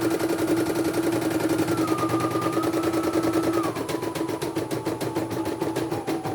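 Computerized embroidery machine stitching at speed: a rapid, even needle clatter with a motor whine that steps down in pitch a couple of times as the stitching speed changes.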